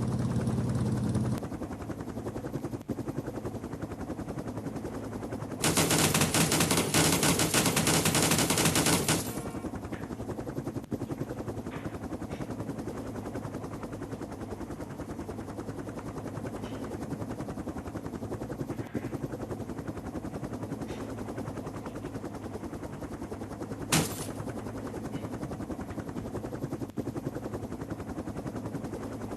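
Helicopter rotor chopping steadily in fast, even pulses. A much louder rush covers the chopping for about three and a half seconds near six seconds in, and there is a single sharp crack near the end.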